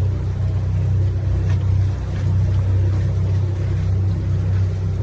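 Canal tour boat's motor running at a steady cruising speed with a constant low hum.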